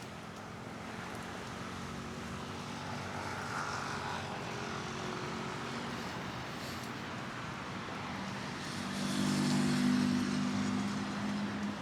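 City street traffic: a steady background of passing cars, with one motor vehicle's engine coming close and passing, loudest about nine to ten seconds in.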